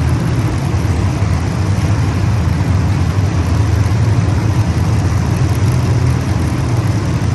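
Race car engines running on the track, a loud, steady drone of several engines together with no breaks.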